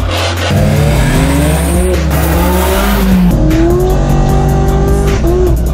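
Car engine revving hard, its pitch climbing again and again as it accelerates through the gears, with tire squeal, over a music track with a heavy, stepping bass line.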